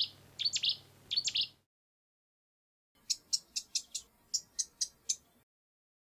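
Small birds calling: three short phrases of quick falling high notes in the first second and a half, then after a silent pause a run of about ten sharp high chirps, roughly four a second.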